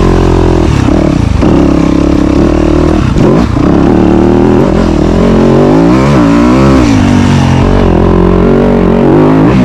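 Dirt bike engine running hard on the throttle, its pitch rising and falling repeatedly as the throttle is opened and closed.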